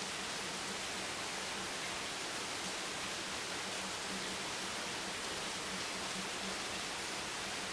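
Steady rain, heard as an even hiss with no single drops or changes standing out.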